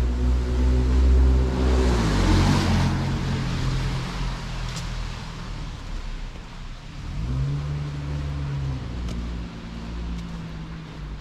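City street traffic: a motor vehicle's engine running with a low hum, a vehicle rushing past about two seconds in, and another engine rising in pitch as it pulls away around seven seconds in.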